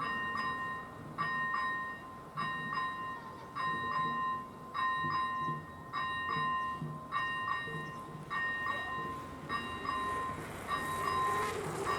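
Level-crossing electronic warning bell ringing in a steady rhythm, about one ring every 1.2 seconds, each ring starting sharply and then holding a clear two-note tone. The rings signal that the crossing is closed for an approaching train.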